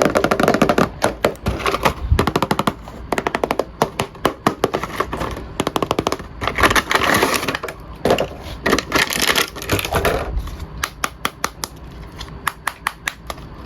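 Plastic toy packaging being handled and opened: rapid, irregular clicks and crackles with stretches of rustling, thinning to separate clicks near the end.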